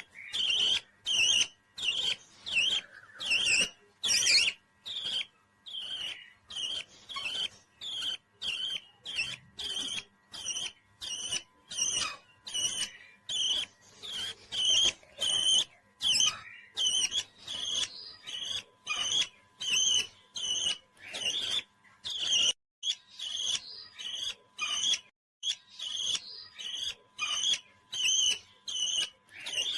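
Small parrot calling: short, high, sharp chirps repeating steadily, about two a second.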